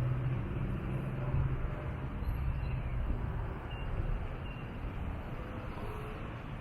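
Low rumble of a motor vehicle's engine, with a steady hum that fades after about a second and a half, leaving a low, even noise.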